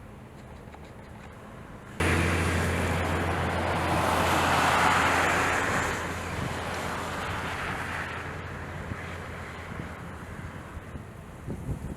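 Strong gusting wind buffeting the microphone, cutting in suddenly about two seconds in, swelling to a peak a few seconds later and then slowly easing, with a steady low hum underneath.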